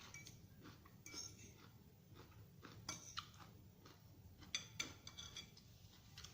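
Faint crunchy chewing of a raw vegetable salad, a few short crisp crunches and light cutlery clicks spread through, the busiest cluster a little past the middle.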